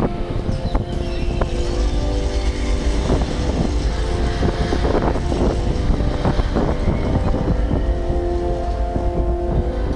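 Strong wind buffeting the microphone: a heavy, gusty rumble. Beneath it, the light show's soundtrack carries on as a few steady held tones.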